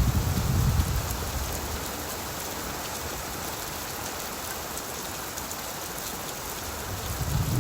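Steady rain falling on leaves, an even hiss with faint scattered drop ticks. A low rumble of distant thunder dies away about a second in, and another begins to build near the end.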